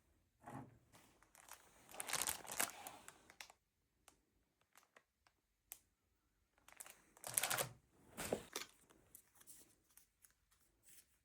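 Crinkling and rustling of handled material in two bursts, the second about seven seconds in, with a few light clicks and taps between them.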